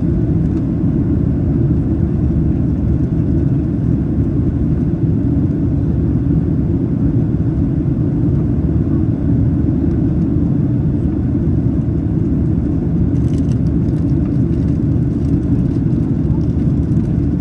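Steady low roar of a Boeing 737-800's CFM56-7B engines and rushing air heard inside the cabin during the climb after takeoff.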